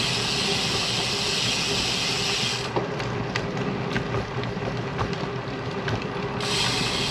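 Riding noise from a moving bicycle: a steady hiss of tyres and wind at the camera, which drops away for a few seconds in the middle, where a few scattered clicks are heard, then returns near the end.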